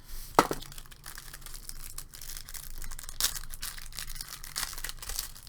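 Trading-card tin pack being pried and torn open by hand: scraping and crinkling, with a sharp click shortly after the start and another about three seconds in.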